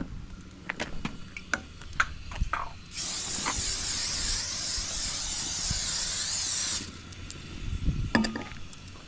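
Aerosol spray can hissing in one steady spray of nearly four seconds, starting about three seconds in and cutting off suddenly. Light clicks and taps come before it, and a short clatter follows near the end.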